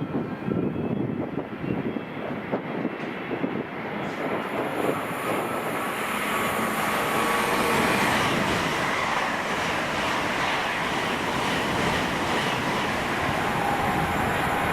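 Train running through the station: low rumble with irregular knocks at first, then a louder, steady rushing of wheels and air that builds from about four seconds in.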